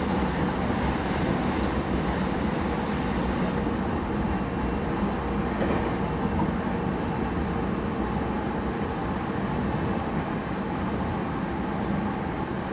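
Steady interior running noise of a JR East E231-0 series commuter electric train at speed: wheels rumbling on the rails, with a faint hum from the train.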